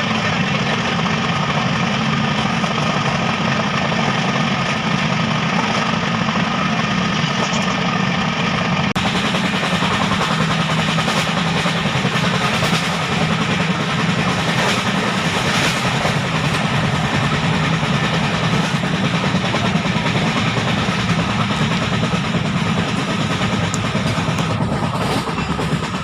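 Passenger train running steadily on the rails, a continuous rumble of wheels and carriage. About a third of the way in, the sound turns hissier.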